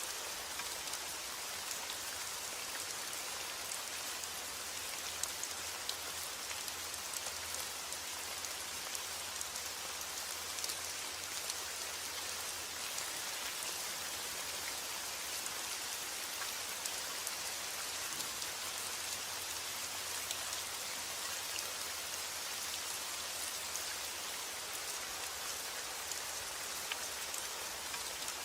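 Steady rain falling, with scattered ticks of single drops striking a surface.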